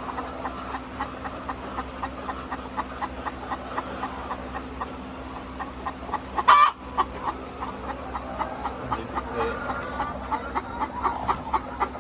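A flock of laying hens clucking, many short notes overlapping several times a second, with one louder squawk about six and a half seconds in. A low steady hum runs underneath.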